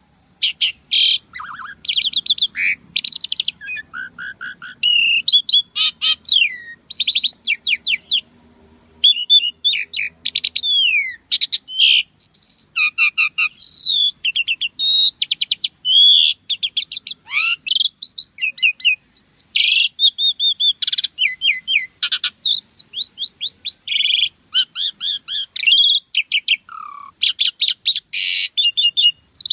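Asian pied starling (jalak suren) singing in full, lively song: a fast, unbroken jumble of clear whistles, short rising and falling glides and harsh chattering notes, with only the briefest pauses.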